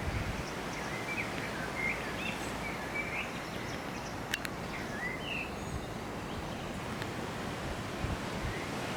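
Steady outdoor wind and water noise, with short high bird chirps through the first half.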